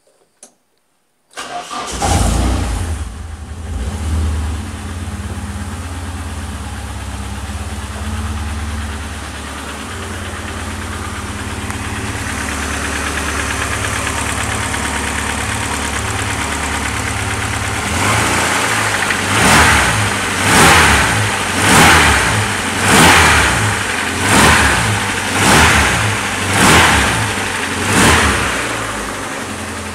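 Supercharged Nissan KA24DE 2.4-litre four-cylinder engine starting for the first time, catching about a second and a half in and flaring up before settling into a steady idle. In the last ten seconds it is revved eight times in quick, even succession.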